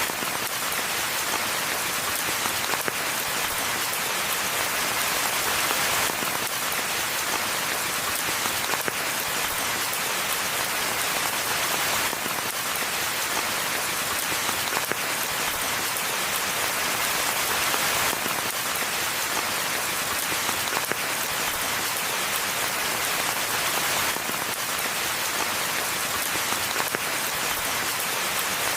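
Steady rain falling in a forest, an even hiss of many raindrops.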